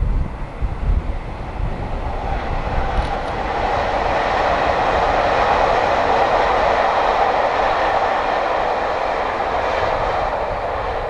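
A passenger train running past, its rolling noise building over a few seconds, holding loud in the middle and then easing off.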